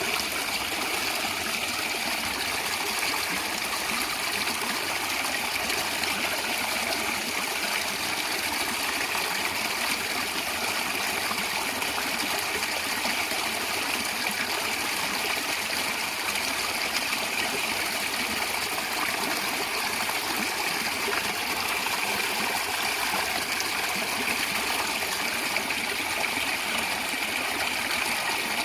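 Stream water flowing and gurgling steadily over stones, an even rushing babble with no breaks.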